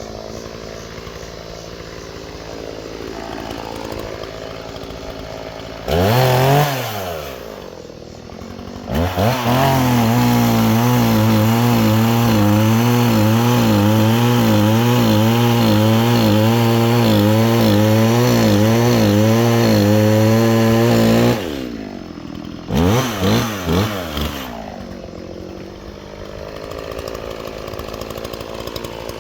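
Chainsaw idling, revved briefly about six seconds in, then held at full throttle for about twelve seconds with its pitch wavering as it cuts wood. It drops back to idle with three quick blips of the throttle.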